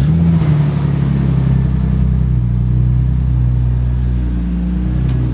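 Car engine running at a steady idle just after being started, settling slightly in the first half-second.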